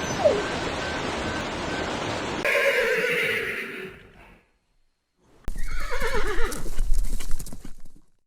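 A steady rushing noise, then a horse whinnying twice: a quavering whinny that falls in pitch, a short break, and a second, longer quavering whinny.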